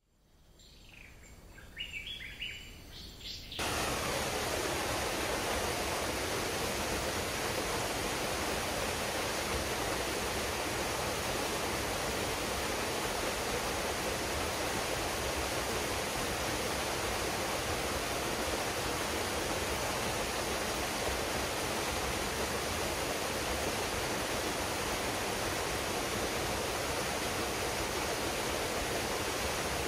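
A few short bird chirps over a faint low rumble, then about three and a half seconds in the steady rush of a waterfall cuts in abruptly and carries on unchanged.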